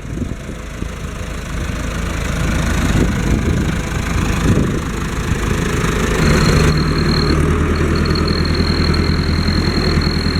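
Fendt Farmer 106 S tractor's four-cylinder diesel engine running, with the typical four-cylinder sound; it grows louder over the first couple of seconds. About six seconds in, a high thin whistle joins the engine note and holds.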